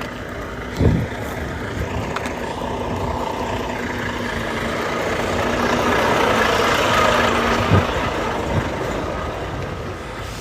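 A truck engine running steadily, growing louder towards the middle and easing off near the end, with two short knocks, one about a second in and one near the end.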